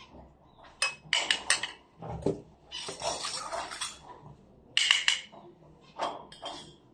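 Light clinks and rattles of small hard objects knocking together, several in quick succession about a second in and again about five seconds in, with a stretch of rustling in the middle.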